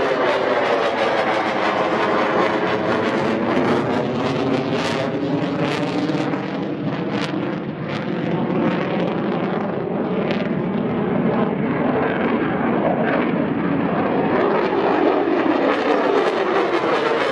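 Fighter jet engine noise, loud and continuous, with a slowly sweeping, phasing quality in the sound.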